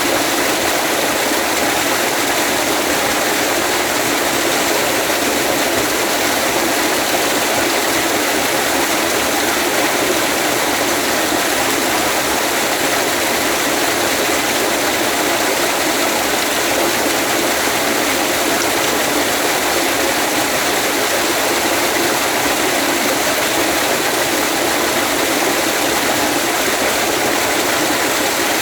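Waterfall rushing: a steady, loud roar of falling water that holds unchanged throughout.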